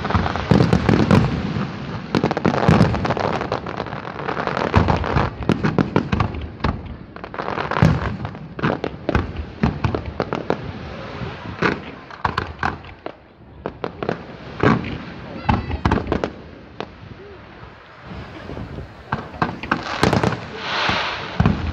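Display fireworks going off: a rapid barrage of shell bursts and crackling, thinning after about twelve seconds to scattered single bangs, then a loud flurry near the end.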